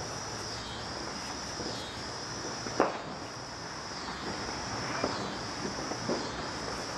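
An insect chirring in a high, steady trill that breaks into pulses of about a second each, with short gaps between. A single sharp click about three seconds in, and a few faint knocks a little later.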